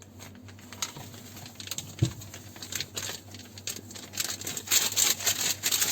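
Baking soda and vinegar going into the dishwasher tub: irregular crackling and fizzing that grows denser and louder over the last second and a half, with a single knock about two seconds in.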